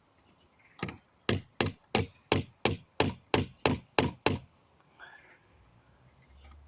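A hammer striking the nails in a pallet plank: one light tap, then a steady run of about ten sharp blows, roughly three a second, working bent nails through the wood.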